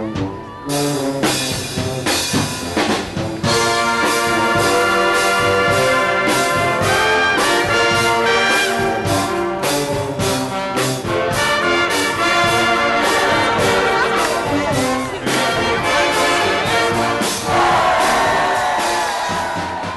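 Brass music with trumpets and trombones playing a rhythmic, upbeat piece.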